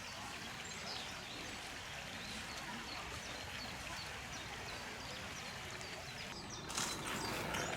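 Small birds chirping with short, high calls over a steady outdoor hiss. A louder rushing noise comes in near the end.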